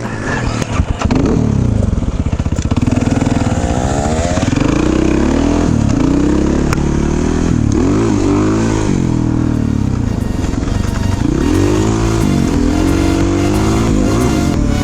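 Single-cylinder dirt bike engine riding a trail, its pitch rising and falling again and again as the throttle opens and closes and the gears change.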